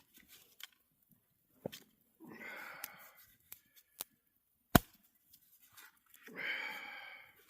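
Handling and opening a can of refrigerated biscuit dough: scattered small clicks and a single sharp pop about five seconds in, between two breathy rushes of about a second each.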